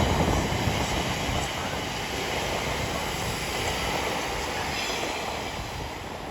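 Electric passenger train running along the platform, a dense rumble and rail noise that fades steadily as it draws away.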